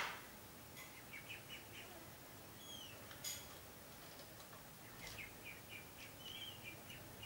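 Faint bird calls: two quick runs of short chirps and a single down-sliding call. A sharp click sounds at the start and another a little past three seconds in.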